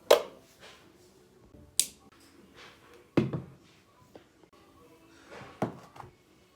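A few separate knocks and clicks, with a duller thump about three seconds in.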